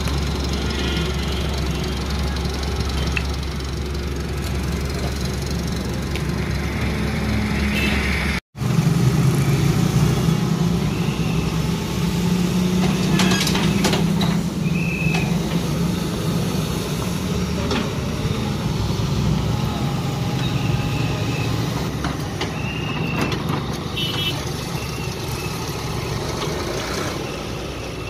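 Excavator's diesel engine running steadily under work. The sound breaks off for an instant about eight seconds in, and the engine drone then sits a little higher.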